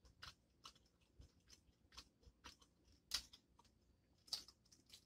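Close-miked chewing of seafood-boil crab and shrimp meat: faint wet mouth clicks and smacks at irregular intervals, with a few louder ones.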